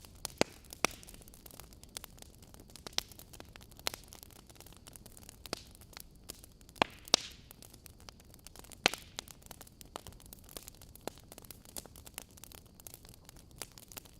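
Wood fire crackling: a soft steady hiss with irregular sharp pops and snaps from the burning logs, a few louder pops standing out.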